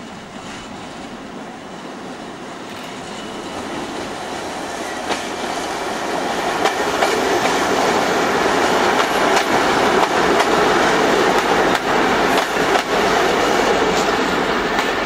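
Diesel passenger train approaching and passing close, growing steadily louder over the first several seconds, with repeated clicks of the wheels over rail joints as the carriages go by.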